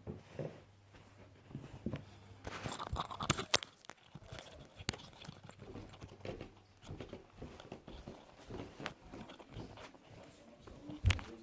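Faint rustling with scattered light clicks and knocks, busiest about three seconds in and again near the end.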